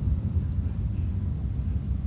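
A steady low rumble with no distinct knocks or thumps standing out.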